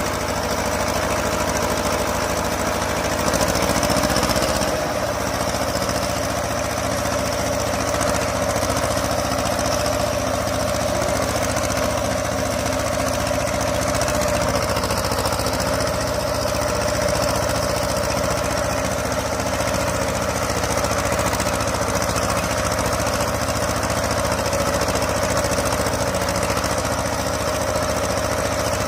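Escorts 335 tractor's diesel engine running steadily with a rapid, even knock, briefly getting louder about four seconds in.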